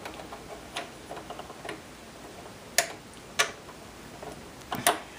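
A handful of irregular sharp clicks and taps from the parts of a Singer Heavy Duty sewing machine being handled while it is threaded, with the loudest clicks about three seconds in and near the end.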